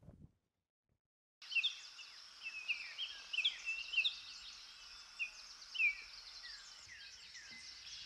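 Small birds chirping: many short, quick, downward-sliding chirps, several a second, over a steady background hiss, cutting in abruptly about a second and a half in after a moment of silence.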